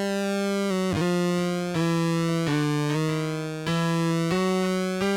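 ARP Avatar guitar synthesizer sounding one continuous tone rich in overtones. The pitch steps up and down between a few nearby notes about every half second to second, with slow sweeps in the upper tone as its oscillator is driven from the guitar.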